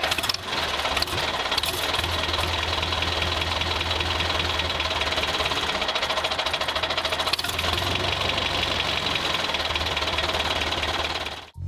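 Diesel tractor engine running steadily with a rapid, even knocking clatter over a low hum; it cuts off abruptly near the end.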